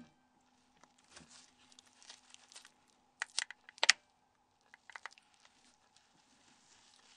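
Plastic snaps of a Nokia 6110 Navigator's cover being pressed into place by hand. Faint handling rustle comes first, then a few sharp clicks about three to four seconds in, the last one the loudest.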